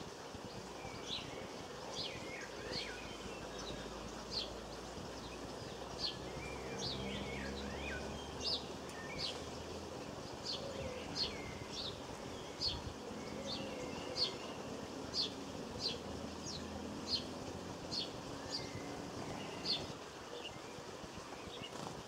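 Small garden birds calling: a run of short, sharp, high notes about one a second, with a few lower chirps in the first half. A faint low drone sits under the middle.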